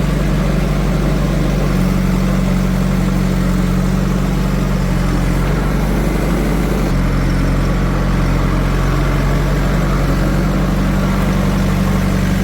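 Diesel engine of a heavy farm or construction machine running steadily at low speed, with an even, unchanging pitch.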